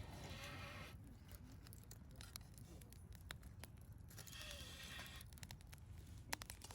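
Wood campfire burning and crackling, with scattered sharp pops and one louder pop near the end. Two short stretches of soft hiss come at the start and again about four seconds in.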